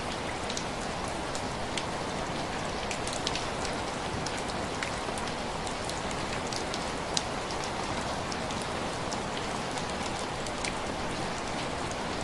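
Steady rain falling on a glass window, with scattered sharp crackling ticks throughout and one louder tick about seven seconds in.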